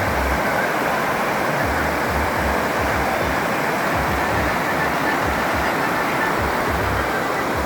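Steady rush of water falling and flowing over rocks at a waterfall, with wind buffeting the microphone in low gusts.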